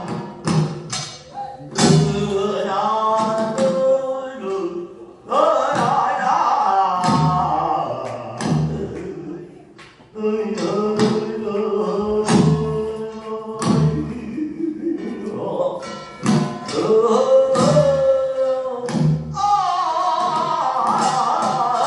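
Korean folk music accompanying a deotbaegi dance: a sung melody with bending, ornamented lines over regular sharp drum strikes.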